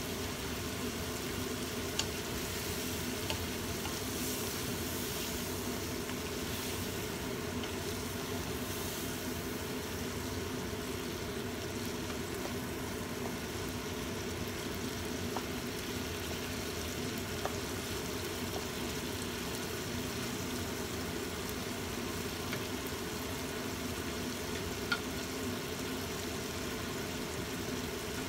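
Squid stir-fry simmering and sizzling in a little sauce in a wok, stirred now and then with a wooden spatula, over a steady low hum. A few light clicks are heard.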